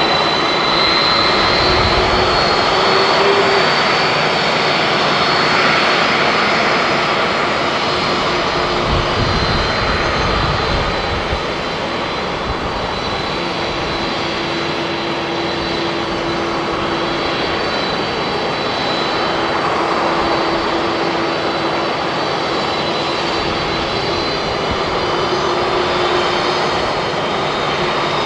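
Airbus A350-900 jet engines (Rolls-Royce Trent XWB) running at high power during takeoff: a steady, loud rush of jet noise with a thin high whine above it and a lower hum. The noise eases off slightly about eleven seconds in.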